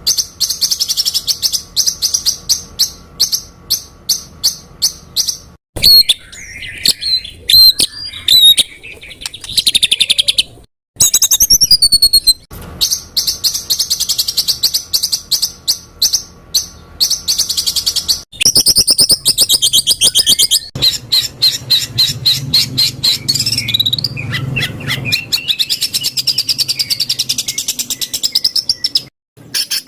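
Songbird song made for teaching competition birds: fast runs of sharp, repeated 'shot' notes and quick trills. Several song clips are spliced together, with abrupt cuts between them.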